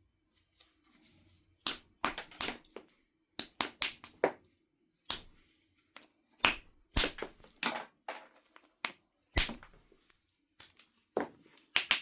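Knife River flint being knapped: a string of sharp, irregular clicks and short scraping strikes of the tool on the stone, some coming in quick clusters.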